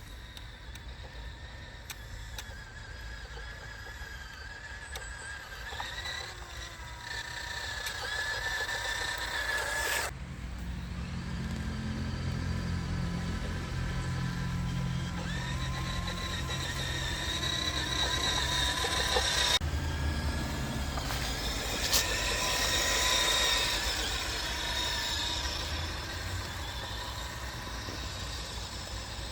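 Radio-controlled model cars running, their motors giving a high whine that rises and falls in pitch, over a low rumble.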